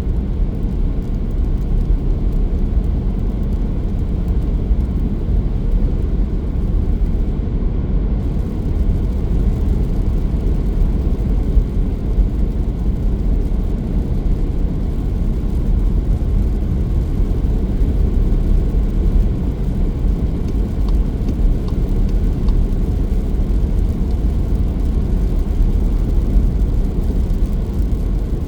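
Car driving along a road: steady low rumble of tyres and engine.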